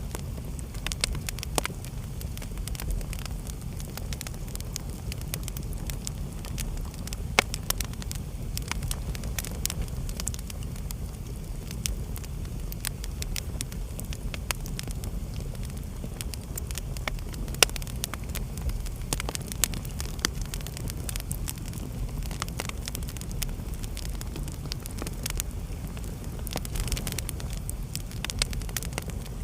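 Wood fire burning in a fireplace: a steady low rumble under irregular sharp crackles and pops, with a louder pop about a quarter of the way in and another just past halfway.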